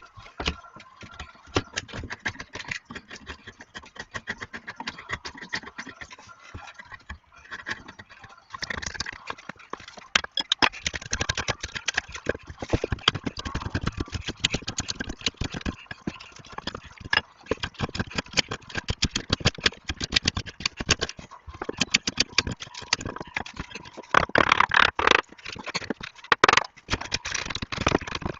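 Dense, irregular clattering and scraping, many hard knocks a second, growing busier after about ten seconds and heaviest a little before the end.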